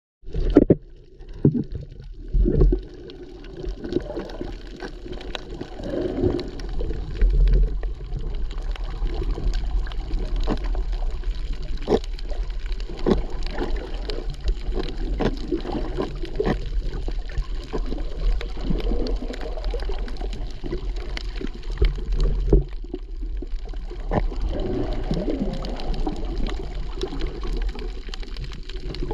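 Water splashing and gurgling from someone swimming, with frequent small sloshes and slaps against a steady low wash.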